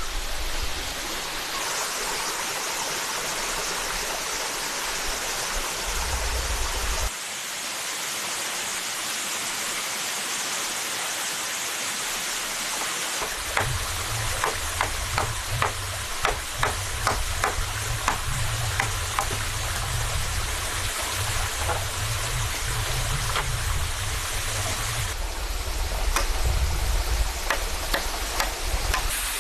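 Steady rushing water noise, whose background character changes abruptly a few times. Through the middle stretch there is a series of sharp knocks or taps, a few per second.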